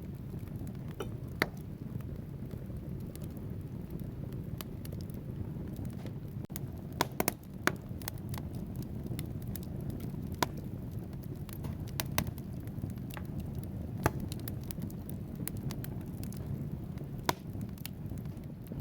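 Wood fire burning in a fireplace: a steady low rush of flames with logs crackling and popping at irregular moments, a quick cluster of sharp pops about seven seconds in.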